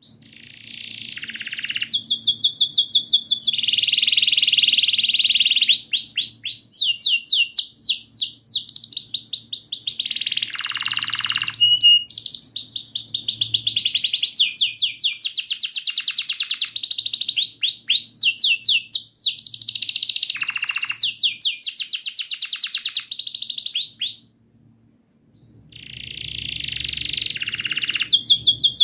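Domestic canary in full song, singing long rolling trills of rapidly repeated high notes almost without a break, pausing once briefly about two-thirds of the way through before starting again.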